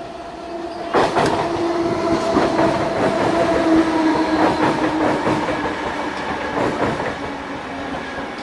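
Electric commuter train running in alongside the platform. Its wheels click repeatedly over the rail joints from about a second in, over a steady tone. It is loudest as the cars pass close and eases slightly toward the end.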